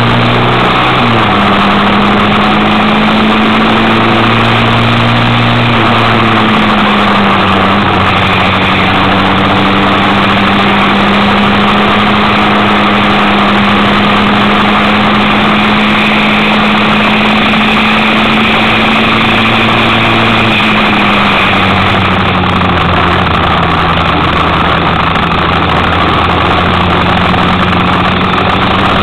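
Kymco Quannon 125's single-cylinder four-stroke engine running at steady revs while riding, its pitch dipping slightly a few times, under a constant rush of wind noise.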